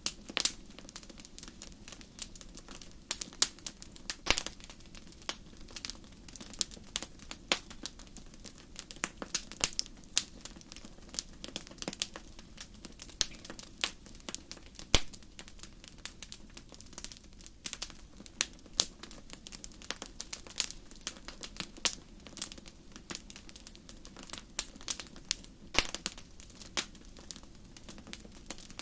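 Wood fire crackling: irregular sharp pops and snaps, several a second and some much louder than others, over a steady low background of the burning fire.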